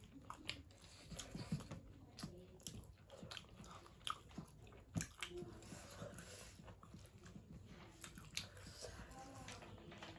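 Close-miked eating: quiet, scattered wet clicks and crunches of food being bitten and chewed.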